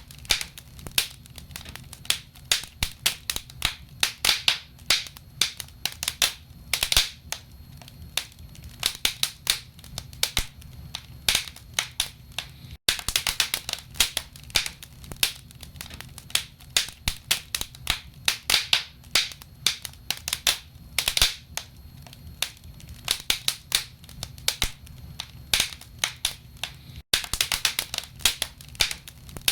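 Wood logs burning in a fireplace, crackling with dense, irregular sharp pops over a steady low rumble of the fire. The sound cuts out for an instant twice, about 13 seconds in and near the end.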